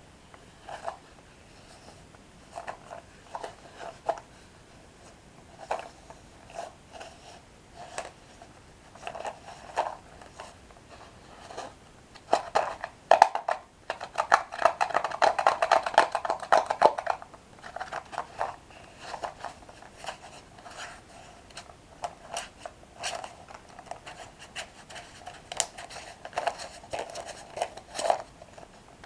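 Close-miked handling of a Dip Dip snack pack: scattered clicks, scrapes and short rustles, with a denser crackling stretch of about four seconds in the middle.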